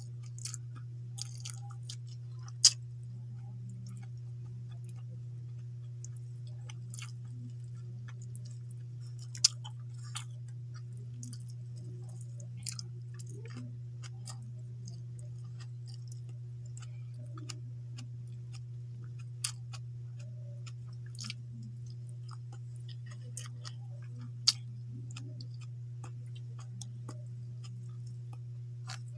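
A person chewing food with wet mouth sounds and sharp smacking clicks scattered irregularly, three of them much louder than the rest, over a steady low hum.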